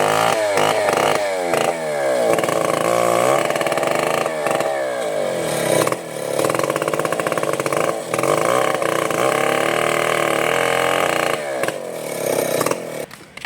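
Two-stroke chainsaw running and cutting wood, its engine pitch repeatedly rising and falling as it revs and slows under load, then stopping near the end.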